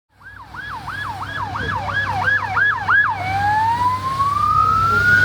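Emergency vehicle siren in a fast yelp of about three falling sweeps a second. About three seconds in it switches to a slow wail rising in pitch. A steady low rumble of traffic runs underneath.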